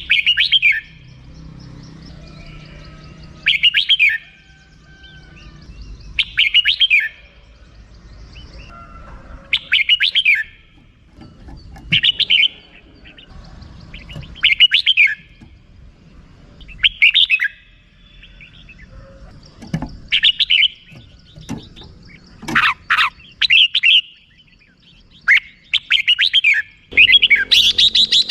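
Red-whiskered bulbul giving its 'rik' call: short chattering phrases repeated about every two to three seconds, turning into a fast run of repeated notes near the end.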